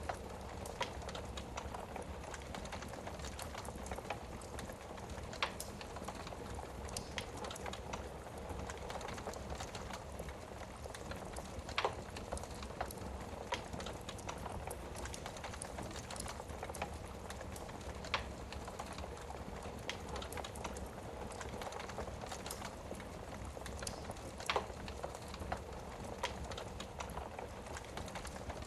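Wood fire burning in a fireplace: a steady low rush of flame with constant small crackles and a sharp pop of burning wood every few seconds.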